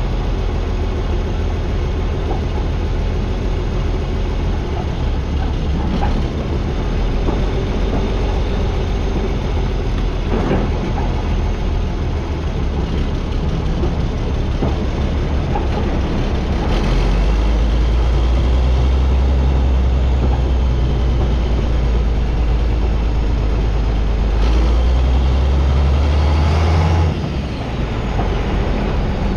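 Farm tractor engine running steadily with a deep drone. It grows louder and heavier about halfway through, then eases off suddenly near the end.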